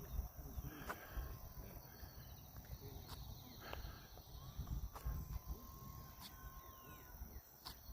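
Wind rumbling on the microphone, with a few sharp clicks and a faint, thin steady whine for several seconds in the middle.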